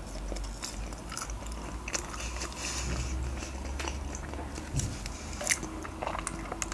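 Close-miked chewing of French fries with barbecue sauce: a string of small, irregular wet mouth clicks and soft crunches.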